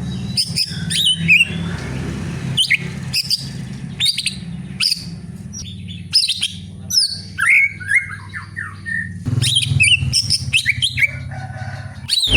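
Greater green leafbird (cucak ijo) singing a varied, irregular run of quick chirps and sharp sweeping whistles over a steady low hum.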